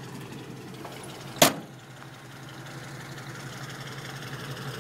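A 350 Chevy V8 idling steadily, heard from inside the truck's cab, with a single sharp clack about a second and a half in.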